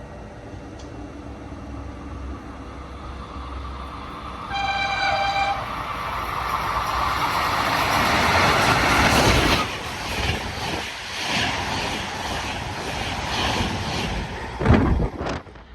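A passing train sounds one horn blast of about a second as it approaches, then goes by with a rushing roar that builds, pulses regularly with the wheels passing, and cuts off sharply as the end of the train goes past.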